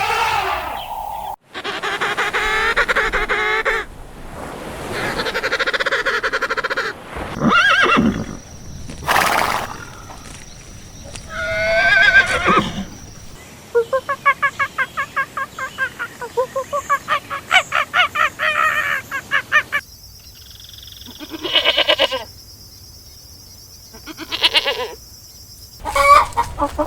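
A string of different farm-animal calls cut one after another, each a few seconds long, including a stretch of quick repeated pulsing calls in the middle.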